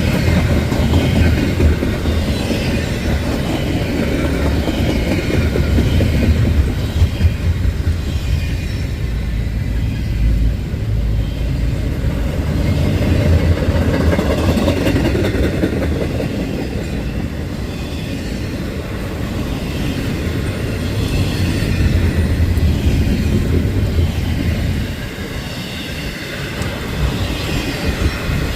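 Freight train rolling past: a steady rumble of steel wheels on rail with clickety-clack over the joints and faint wheel squeal.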